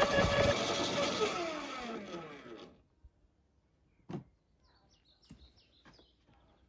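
Bosch electric wood chipper switched off: its motor's whine falls steadily in pitch and dies away over about two seconds. A few faint clicks follow.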